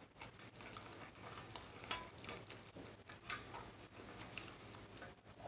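Faint close-up chewing of a mouthful of noodles and chicken, with scattered soft wet mouth clicks.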